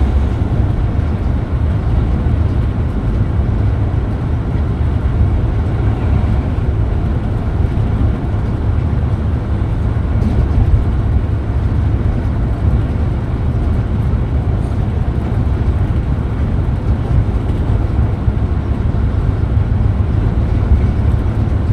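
Steady low rumble of a Scania Metrolink multi-axle coach running on the road: engine and road noise at an even level, with no changes in speed.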